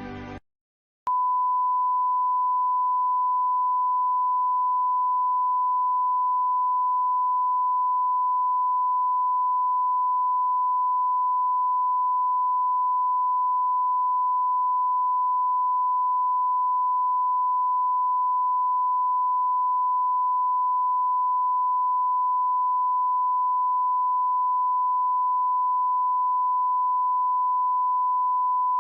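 The last of the music cuts off just after the start, then after about a second of silence a steady single-pitch 1 kHz sine tone comes on and holds unbroken: a broadcast test tone of the kind played when a station goes off the air.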